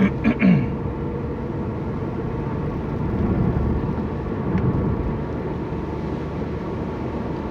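Steady road and engine rumble inside a car being driven, with a few brief short sounds in the first half-second.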